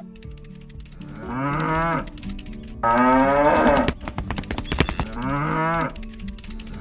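Cow mooing, a recorded sound effect: three calls, about one, three and five seconds in, each about a second long and falling in pitch at the end, the middle one the loudest.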